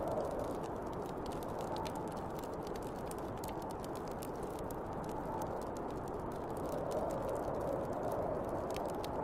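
Snowstorm wind blowing steadily and swelling in gentle gusts, with the small sharp pops and crackles of a wood fire over it.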